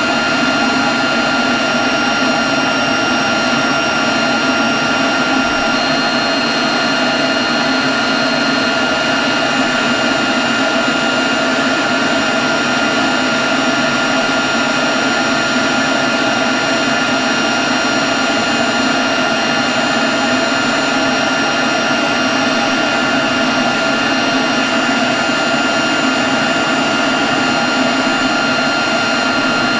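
Leaf blower running steadily at constant speed: a loud rush of air with a steady high whine on top.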